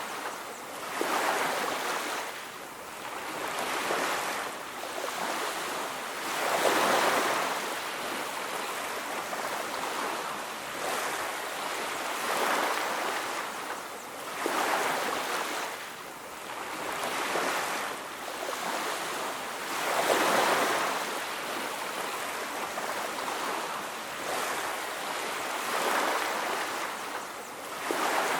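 Ocean surf: waves breaking and washing on a beach, the rush of water swelling and fading about every two to three seconds.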